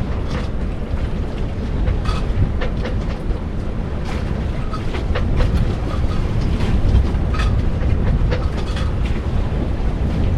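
Storm-force wind buffeting a small sailboat at anchor, a heavy rumble of wind on the microphone, with irregular knocks and rattles, some with a short metallic ring, every second or so.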